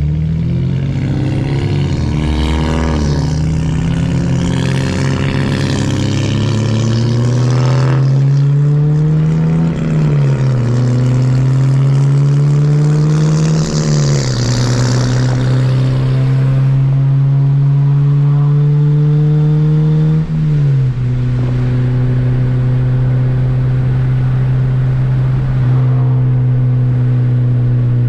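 2007 Honda Civic Si's 2.0-litre four-cylinder engine under hard acceleration through the gears. The engine pitch climbs, falls sharply at each upshift, then climbs again, about four times, with a rush of air noise in the middle.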